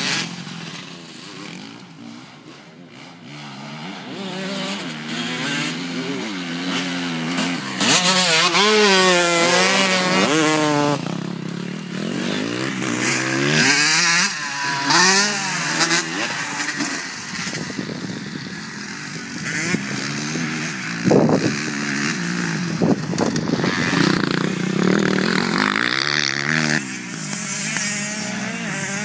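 Motocross bike engines revving up and down as the bikes ride past, the pitch rising and falling with each throttle change. The sound is quieter for the first few seconds and grows loud about a quarter of the way in.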